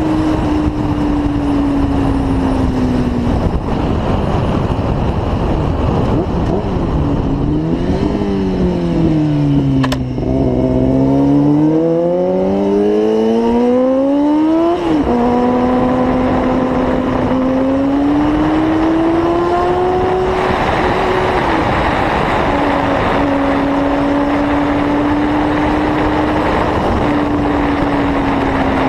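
Motorcycle engine running at speed over heavy wind and road noise. Its pitch falls as it slows, dips and recovers, then climbs steadily and drops suddenly at a gear change about fifteen seconds in. After that it holds fairly steady with small rises and falls.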